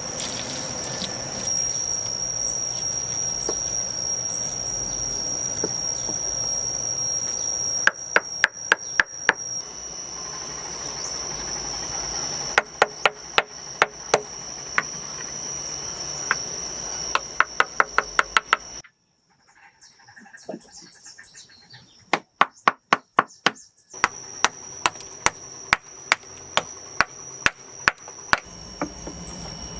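Runs of quick sharp knocks, about five or six a second, from a tool striking wood, in several bursts. A steady high insect trill runs under them and drops out briefly past the middle.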